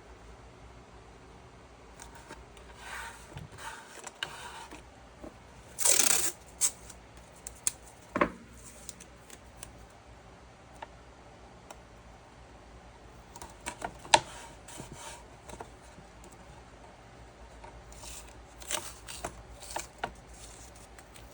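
Scattered handling noises in a small room: soft rustles, light knocks and clicks. The loudest are a short rustle about six seconds in and sharp clicks around eight and fourteen seconds in.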